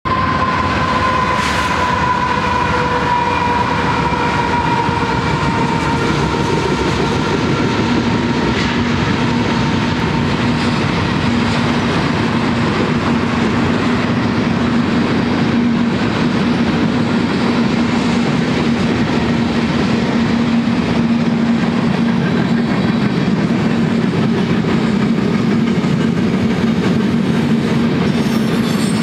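Freight train's tank cars and covered hoppers rolling past: a steady rumble with wheels clicking over rail joints. A high whine slides slowly down in pitch and fades over the first several seconds, and a steady low hum comes in from about eight seconds.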